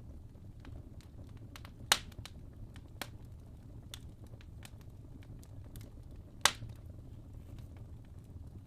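Wood fire burning in a fireplace: a soft steady rumble of flames under scattered small crackles, with two loud sharp pops from the logs, one about two seconds in and one near six and a half seconds.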